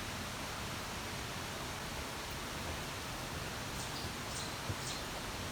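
Steady rushing of a waterfall, an even wash of water noise. A few short, faint high chirps come in near the end.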